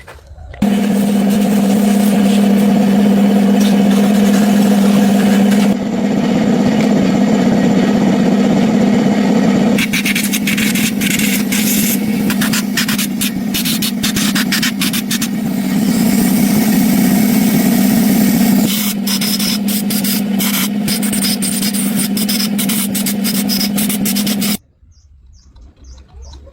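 A motor running steadily with a strong hum and a rasping hiss, in several stretches that change abruptly. In the later stretches there are many sharp crackles over the hum.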